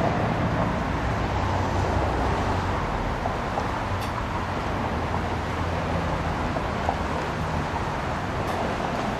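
Steady road traffic noise: cars running past on a street, a continuous hum of engines and tyres.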